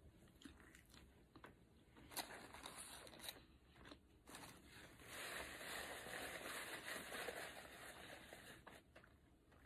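Faint biting and chewing of a crispy fried chicken sandwich, heard as scattered small crunches and mouth clicks. From about five seconds in, a paper napkin rustles for a few seconds.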